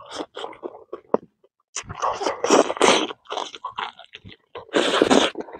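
Close-up eating sounds: a person chewing and crunching a mouthful of roasted meat, with small wet clicks and two louder stretches of crunching, one about two seconds in and one near the end.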